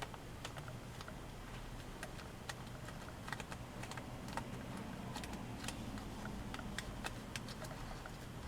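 A sheet of origami paper being folded and creased by hand: irregular light clicks and crackles, several a second, over a low steady hum.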